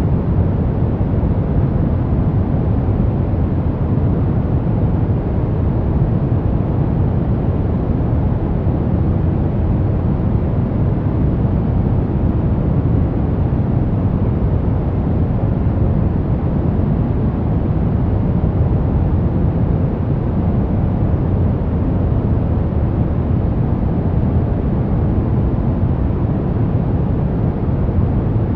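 Steady white noise for baby sleep, an unbroken rushing hiss weighted toward the deep end with little treble, not changing at all.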